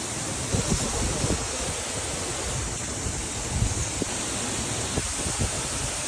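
Steady rush of a flowing river, with wind buffeting the microphone in a few short low thumps.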